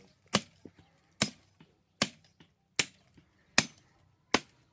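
Firewood being chopped by hand: six sharp blade strikes into wood, evenly paced at about one every 0.8 seconds.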